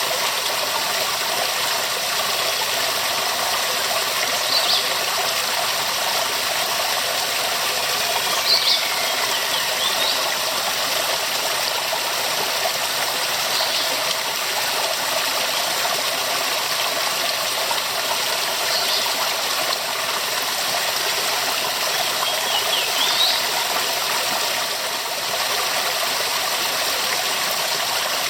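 Waterfall rushing steadily, a dense hiss with little low rumble. Brief high chirps sound every few seconds over it.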